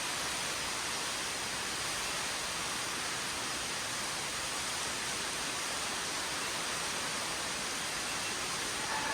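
Steady, even rush of an underground waterfall, with no changes or distinct events.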